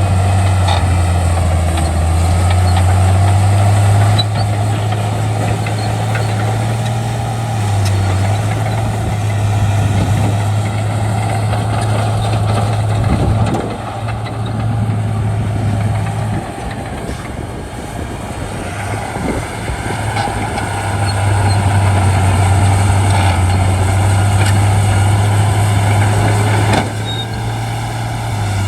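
Shantui D95 bulldozer's diesel engine running steadily under load. The engine note drops away for several seconds in the middle, then picks back up.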